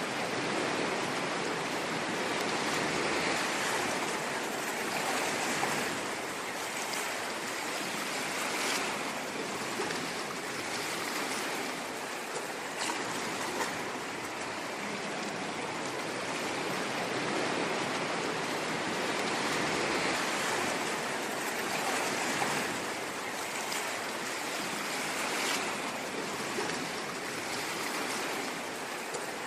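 Ocean waves washing ashore: a steady rushing hiss that swells and eases every few seconds, with a few brief sharper splashes.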